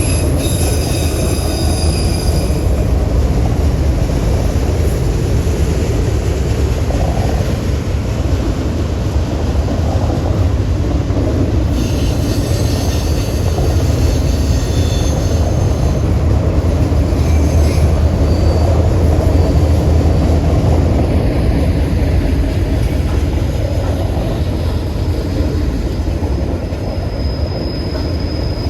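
Train rolling past with a loud, steady low rumble, its wheels squealing in thin high tones at the start, again about twelve seconds in, and near the end.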